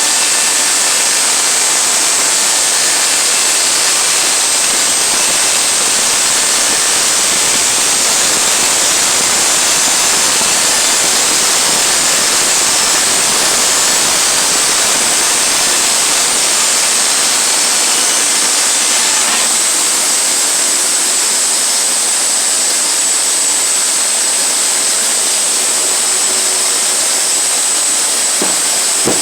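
Sawmill running steadily under load, its engine and blade making a loud, even noise with a thin high whine on top.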